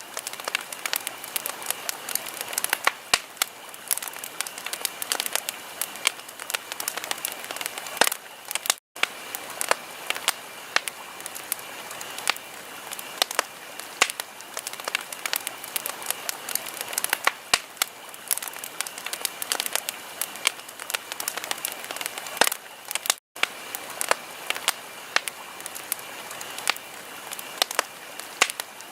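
Wood fire in a fireplace crackling, with frequent sharp pops and snaps over a steady hiss. The sound cuts out for an instant twice, about 9 and 23 seconds in.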